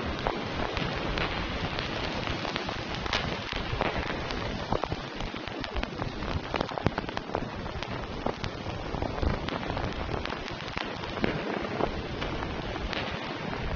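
Steady rain falling, an even hiss with many separate drops ticking and pattering on a surface.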